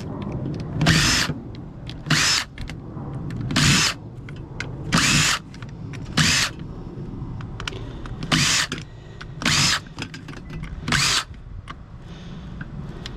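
Power drill run in about eight short bursts, each around half a second long, one to two seconds apart.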